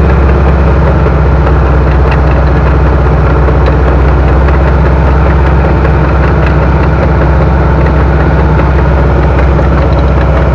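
Heavy logging machine's engine running steadily, loud and close, with a strong low drone that holds an even speed.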